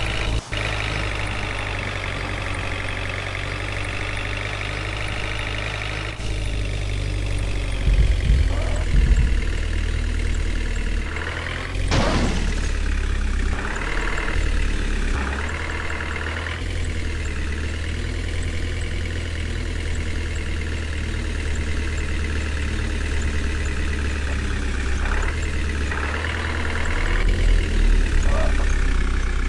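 A vehicle engine runs steadily at idle throughout, with a few brief swells and louder passages.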